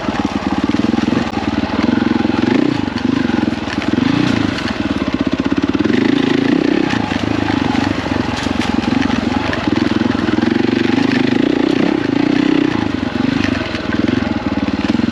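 KTM 450 EXC's single-cylinder four-stroke engine working on rough trail, its pitch rising and falling over and over as the throttle is opened and closed.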